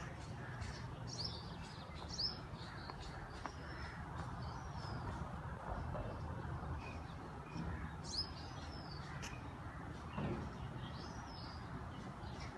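Small birds chirping, with short high calls and quick falling notes scattered through, over a steady low background rumble.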